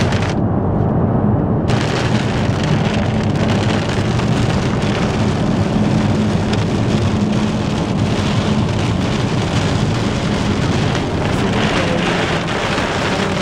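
Heavy rain pelting a moving car's roof and windshield, a loud steady hiss over the low hum of road and engine noise. The high part of the hiss drops out for about a second near the start.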